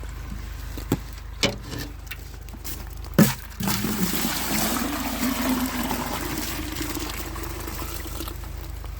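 Maple sap poured from a tree bucket into a metal gathering pail: a few sharp knocks of the buckets being handled, then a steady pour from about three and a half seconds in that fades away near the end.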